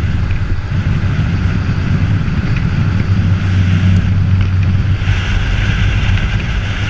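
Steady rush of wind over the microphone and low rumble of wheels rolling on asphalt at high downhill speed, a little louder in the upper range from about five seconds in.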